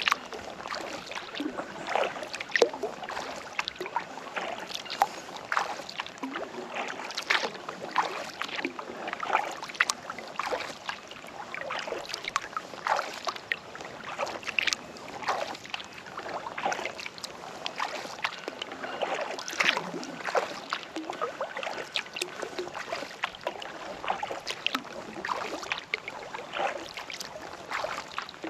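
Kayak paddling on a calm lake: the paddle blades dipping and pulling, with many small irregular splashes and drips of water running off them.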